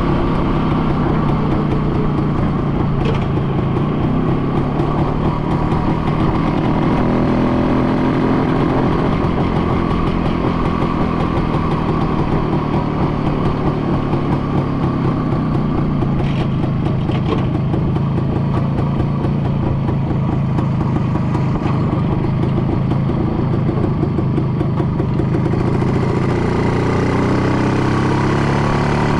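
An engine running steadily, its pitch drifting slightly, with a few brief clicks and a rise in pitch near the end.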